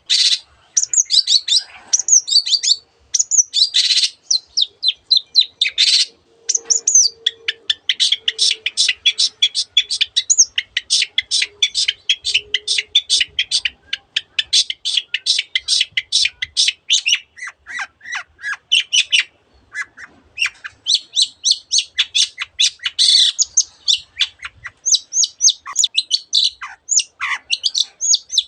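Long-tailed shrike (cendet) singing a fast, unbroken chatter of short high chirps and squawky notes, with imitations of other birds' calls worked into the song.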